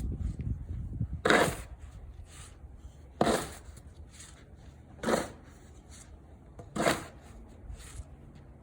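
Snow shovel scraping and scooping snow, five strokes about every two seconds.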